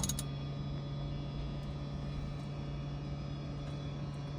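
Steady low hum with an even hiss behind it, and a few faint ticks.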